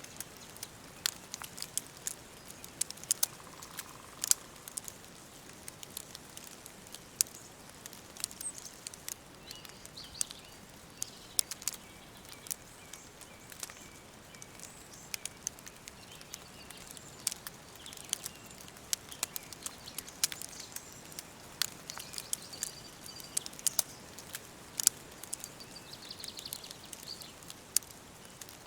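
Wood fire crackling, with frequent irregular sharp pops over a soft steady hiss. Faint birds chirp now and then in the background.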